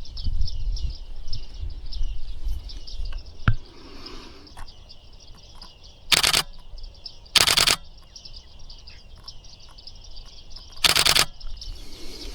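Bearded reedlings chirping in a dense, unbroken run of quick high calls. Three short bursts of a camera shutter firing rapidly are the loudest sounds, about six, seven and a half and eleven seconds in. A low rumble, likely wind on the microphone, runs under the first three seconds.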